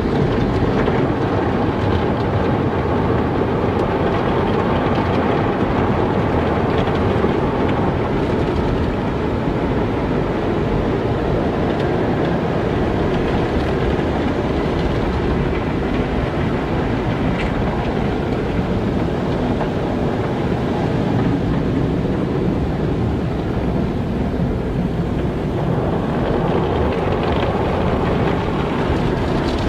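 Car wash in operation: a steady, dense mechanical and spraying noise, changing slightly in tone about eight seconds in and again a few seconds before the end.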